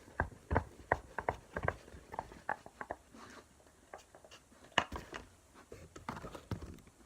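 Irregular light knocks and taps, as of objects and containers being handled on a table, about a dozen in the first two seconds and a sharper one a little before the five-second mark.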